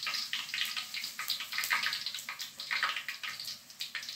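Spoonfuls of cabbage-and-carrot fritter batter frying in hot oil in a wok, a dense, irregular sizzle and crackle.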